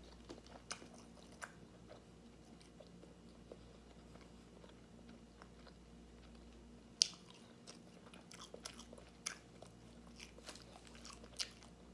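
A person chewing food close to the microphone: soft, scattered mouth clicks and smacks, with a sharper click about seven seconds in and a quicker run of them near the end.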